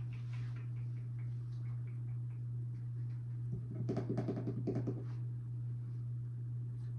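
A quick, rapid run of knocks or taps lasting about a second and a half, starting about halfway through, over a steady low hum.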